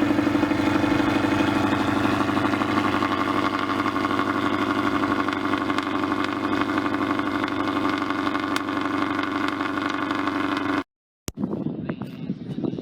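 A car's engine and exhaust running loudly at a steady, unchanging speed, the sound of a show car being demonstrated in an exhaust contest. About eleven seconds in it cuts off suddenly, and a quieter, rougher engine sound follows.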